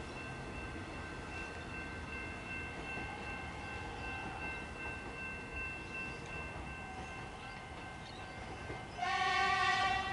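Melbourne suburban electric train moving away, its motors giving a faint steady whine. About nine seconds in, a short horn blast of about a second.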